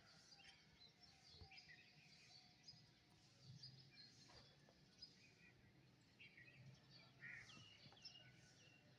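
Faint chorus of small songbirds chirping and twittering, many short high calls overlapping, over a faint low steady hum.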